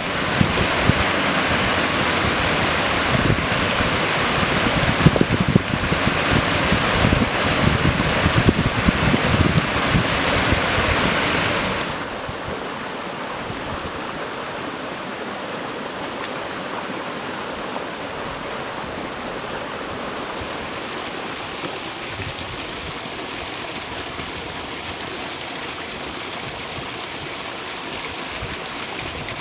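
Stream water rushing, loud at first with gusty low rumbles of wind on the microphone, then dropping suddenly about twelve seconds in to a quieter, steady flow.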